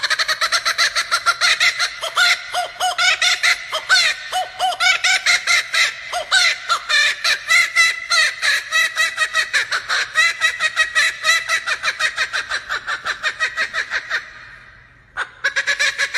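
A bird calling in a fast, unbroken run of short pitched notes, about four or five a second. The run breaks off briefly near the end, then starts again.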